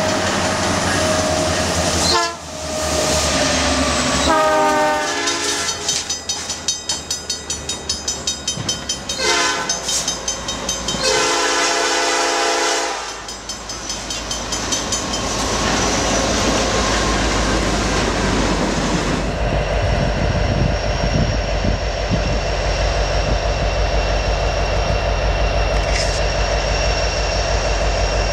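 Diesel locomotive air horn of a CN freight train sounding four blasts, the third one short, the long-long-short-long pattern blown for a grade crossing. The locomotives then pass with a steady heavy engine rumble and the rumble of the double-stack container cars on the rails.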